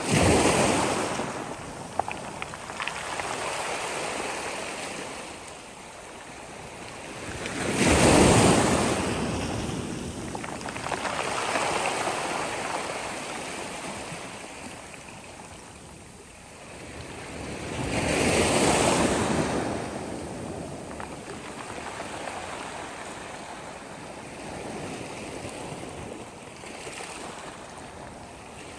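Sea waves breaking on a shore, with three big breakers about ten seconds apart, at the start, about eight seconds in and about eighteen seconds in. Between them is the steady wash and hiss of the surf.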